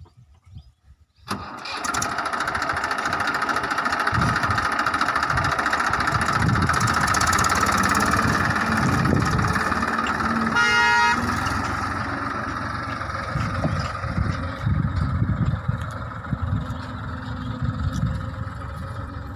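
Tractor engine starting about a second in and then running loud and steady, easing a little in the second half. A horn sounds briefly about halfway through.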